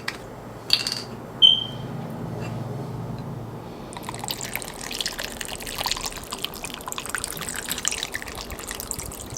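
Coconut water being poured over ice cubes and cut fruit, splashing and crackling for about five seconds from roughly four seconds in. Before it there is a click and a short clink as the container is handled.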